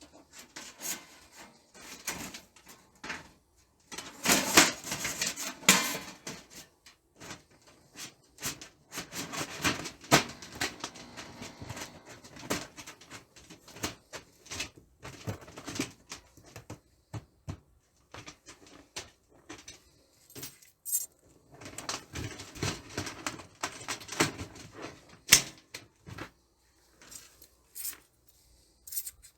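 Thin titanium camp stove parts being handled, with irregular clinks, clatter and scraping of light metal pieces. The noise comes in clusters of quick knocks and scrapes with short pauses between them.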